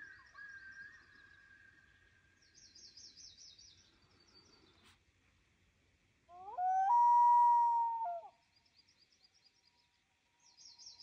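A common loon gives one loud wail about six seconds in: it glides up, holds a clear note for about two seconds, then drops away. Small songbirds sing high, fast trills in the background, near the start and again near the end.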